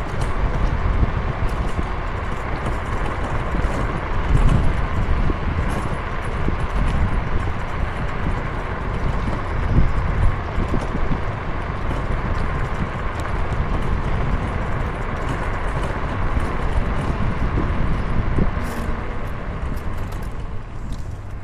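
Steady rushing and rumbling noise of a moving ride, with gusty low buffeting that swells about four seconds in and again about ten seconds in.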